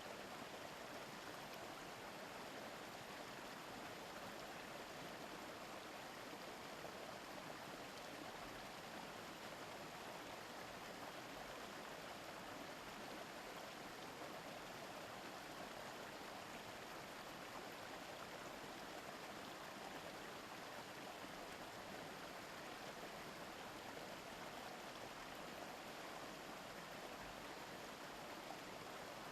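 A small river babbling over stones: a steady, even rush of water.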